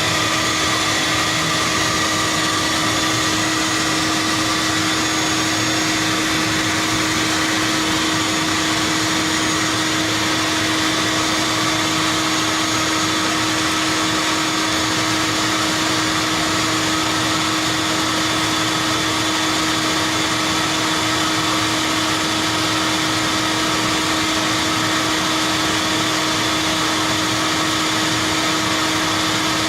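Shop vac running steadily with its extended hose, sucking bees out of a hive: an even, unchanging motor drone with a held hum.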